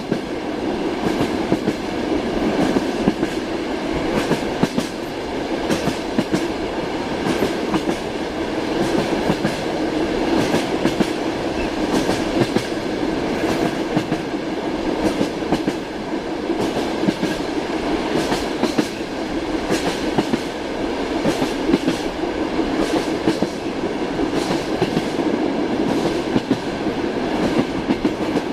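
Interior of a moving passenger railway carriage: a continuous rumble of the running train with the wheels clicking over the rail joints throughout.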